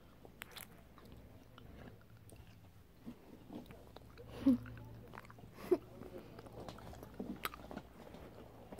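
Close-up biting and chewing of chewy taffy candy: soft, scattered mouth smacks and clicks, with two brief louder smacks around the middle.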